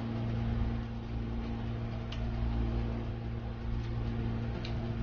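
A man chewing a mouthful of raw cucumber, with a few faint crunches over a steady low hum.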